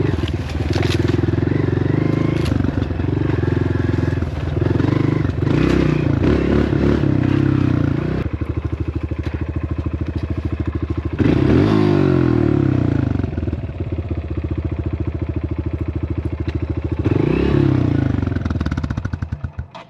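Dirt bike engine running under way on a trail, held at steady revs, then dropping to low revs with distinct firing pulses. It revs up sharply about 11 seconds in and again near 17 seconds, then cuts out suddenly just before the end.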